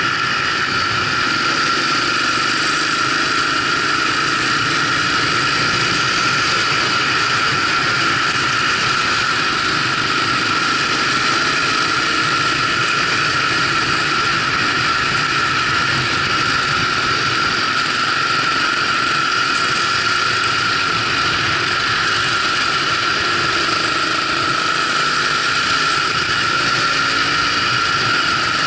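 Dirt bike engine running steadily while riding along, with a constant high tone over a steady rush of wind and road noise.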